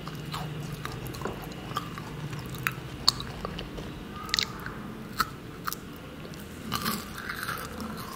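A person biting and chewing a matcha snack, with scattered small crunches and clicks.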